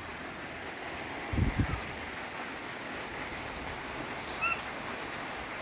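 Steady hiss of heavy rain. A short low thump comes about a second and a half in, and a brief high chirp near the end.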